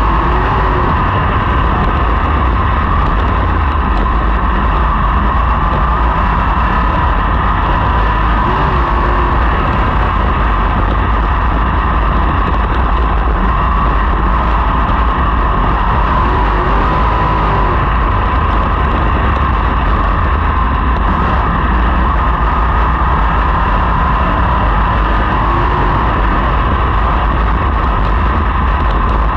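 Sprint car engines running hard at racing speed, a loud, steady, unbroken engine din with a slight waver in pitch.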